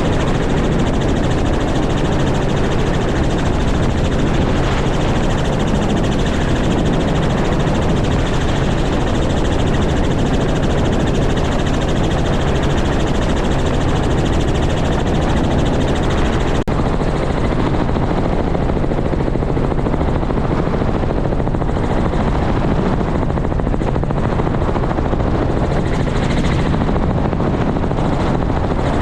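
Helicopter running steadily: a constant rotor and engine drone with a low hum. A single sharp click comes a little past halfway, after which the higher hiss eases slightly.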